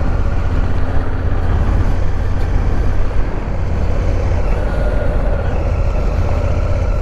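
Honda Africa Twin motorcycle on the move, engine running with a steady deep rumble of ride noise.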